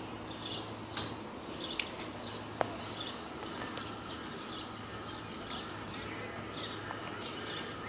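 Birds chirping in short calls about twice a second over a faint steady hum, with a few sharp clicks in the first three seconds.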